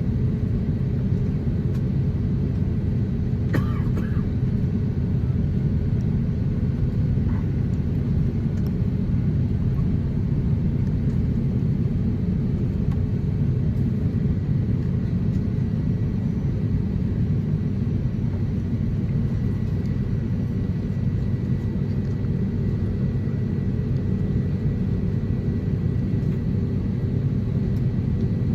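Steady low rumble inside the cabin of an Airbus A350-900 taxiing, its Rolls-Royce Trent XWB engines at taxi power, with a faint steady whine above the rumble.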